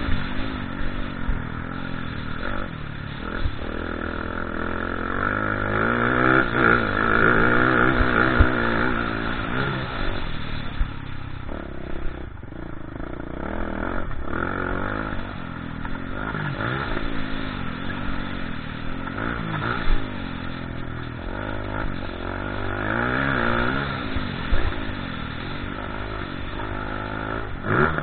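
Motocross bike engine revving up and down over and over as the throttle opens and closes and the gears change, with a few short, sharp louder knocks.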